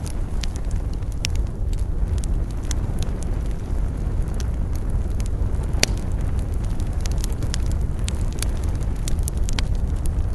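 Wood campfire burning: a steady low rumble of the flames with frequent sharp crackles and pops of burning wood, one louder pop about six seconds in.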